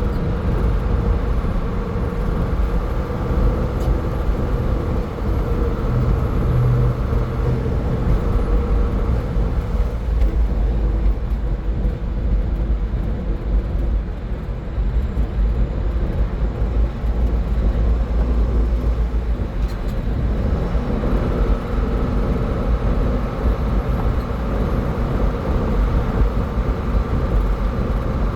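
Car driving at highway speed: a steady low rumble of tyre and road noise with a faint engine hum. A light whine fades out about a third of the way in and comes back about two-thirds of the way in.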